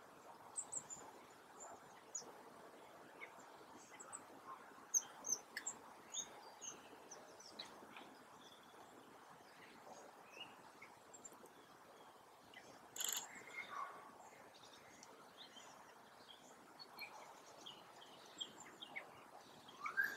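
Small woodland songbirds giving scattered short, high chirps and calls over a steady faint background hiss, with one brief loud burst of noise about thirteen seconds in.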